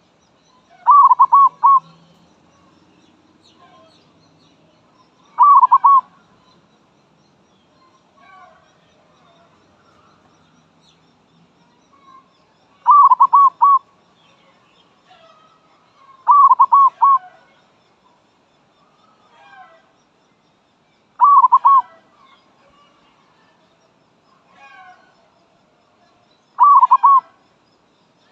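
Zebra dove (merbok) calling: six short bursts of rapid, stuttering coo notes, spaced a few seconds apart, with fainter bird chirps between them.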